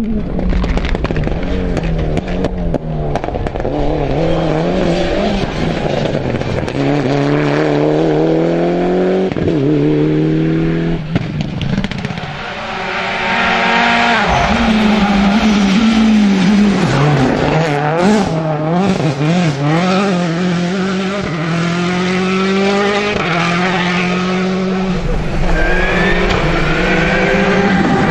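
Rally cars driven hard on a special stage: engines revving up and dropping back again and again through gear changes and braking, with tyre squeal and a few sharp cracks about two-thirds of the way through.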